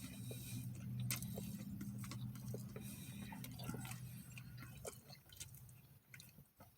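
Chewing and small clicks of food and wrappers, over a low steady engine rumble that fades out about five seconds in.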